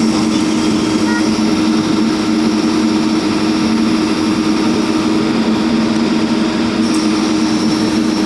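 JCB construction machine's diesel engine running steadily with an even, low hum.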